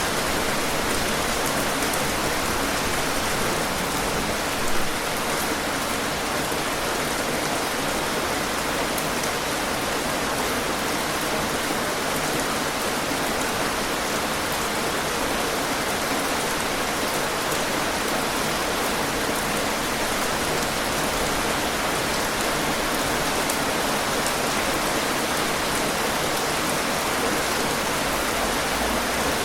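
Steady, heavy rainfall: a dense, even patter of raindrops. There is one brief louder hit about five seconds in.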